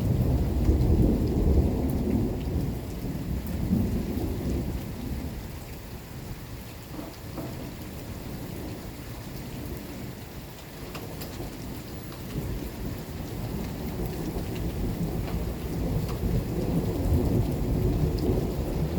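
Thunder rumbling over steady rain. The rumble is loudest in the first few seconds, dies down through the middle and builds again near the end, with raindrops ticking now and then.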